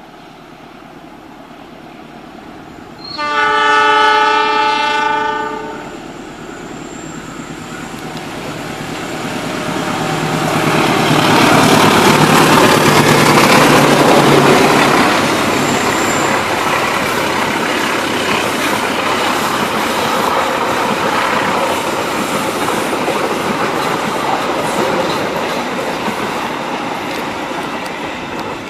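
Diesel-hauled passenger train: the locomotive gives one long horn blast about three seconds in, then the train runs past. The locomotive and wheels swell to loudest around the middle, and the passenger coaches keep rolling past over the rails.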